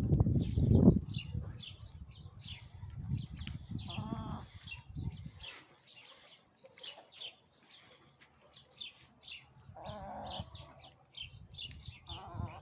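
Pigeons cooing in a loft, with a coo about four seconds in, another around ten seconds and one near the end, over quick high chirping from small birds. Low rumbling and rustling noise fills the first five seconds and is loudest at the start.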